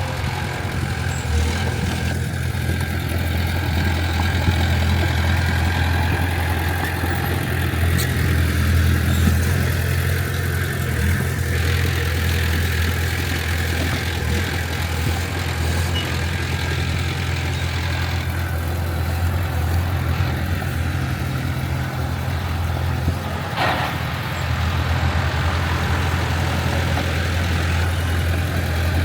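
Heavy diesel engine of earthmoving machinery running steadily with a low, even drone. Near the end comes a short, higher-pitched sound.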